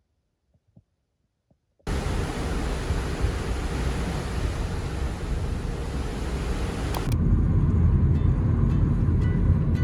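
Near silence, then a loud, steady rushing noise cuts in suddenly about two seconds in. About seven seconds in it changes abruptly to a deeper rumble with faint ticks.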